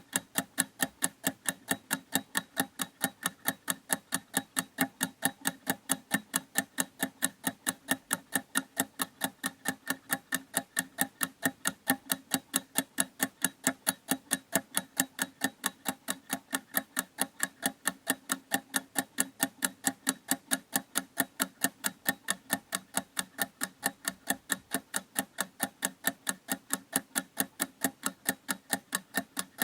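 Clock ticking steadily with fast, even ticks, about three a second.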